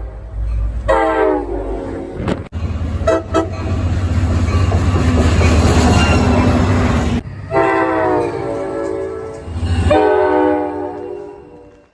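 NJ Transit ALP-46 electric locomotive hauling Multilevel coaches, sounding its horn in several blasts as it passes: a short one about a second in, a long one past the middle and another near the end, over the steady rumble of the train. The horn's pitch dips slightly on the later blasts, and everything fades out at the end as the train moves away.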